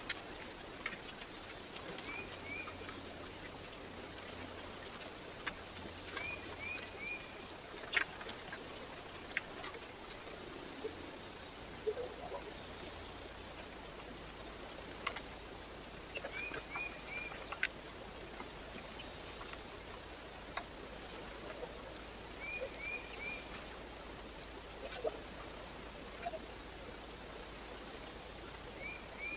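A bird chirping in quick groups of three notes, the groups coming back every few seconds, over a steady trail-camera microphone hiss. Sharp clicks are scattered between the calls.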